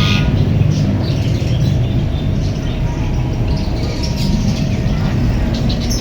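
Ring-necked parakeets chirping and calling in short bursts over a steady low rumble.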